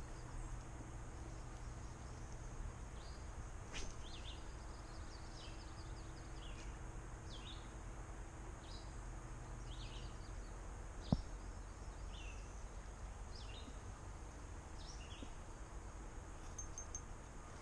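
Quiet creekside ambience: a bird repeating short high chirps about once a second over a faint steady rumble of wind, with two isolated clicks.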